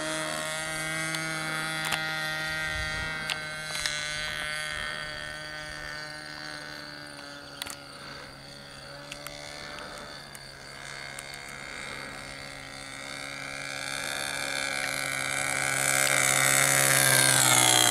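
Nitro glow engine of an RC Cessna 177 Cardinal model plane running at steady high throttle in flight. Its buzz drops slightly in pitch at the start as the plane passes, fades as it flies away, and grows louder again near the end as it comes back. The pilot reckons the engine revs high because the propeller is a bit small.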